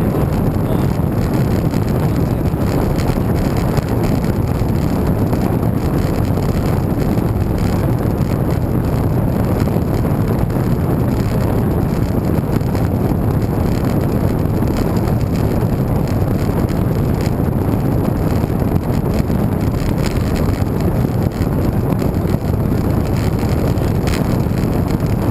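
Steady wind noise rushing over the microphone of a camera riding along on a moving bicycle, a low, even rush with no breaks.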